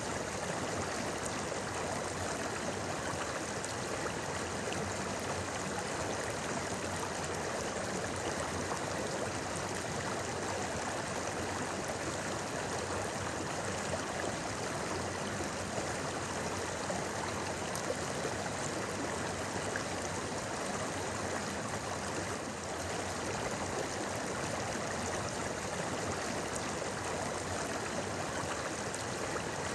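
A clear, shallow river babbling steadily.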